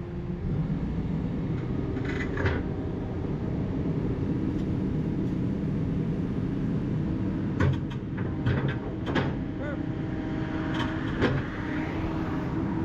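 Hydraulic excavator running under load, its engine a steady low rumble with a held tone from the hydraulics. Sharp knocks come from the bucket working rock and dirt: one about two seconds in, then a cluster of several in the second half.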